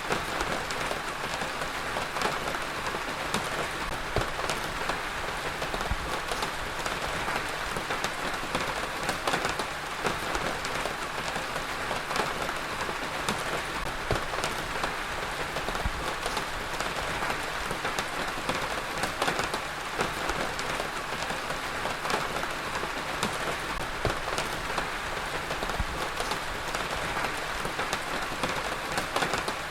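Heavy rain falling steadily on a surface, a dense even hiss with many fine drop patters.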